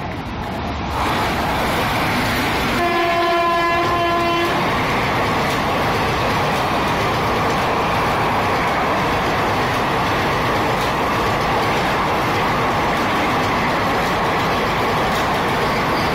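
WCAM-3 dual-current electric locomotive hauling an express, sounding its horn once, a single held note about a second and a half long, roughly three seconds in as it approaches at speed. Then the train's coaches rush past with a steady loud noise of wheels on rail.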